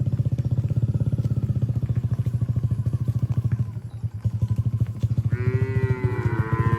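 A small engine runs at a steady, rapid putter. A cow starts mooing about five seconds in.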